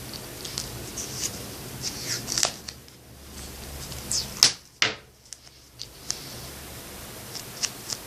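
Small clicks, taps and rustles of hands handling a plastic drinking straw, tape and model boat parts, with a sharper click about four and a half seconds in.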